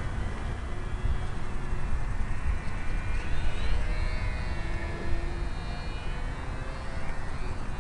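Wind buffeting the microphone with a heavy low rumble, over the faint high whine of an ultra-micro electric model airplane's motor, rising and falling in pitch as it flies.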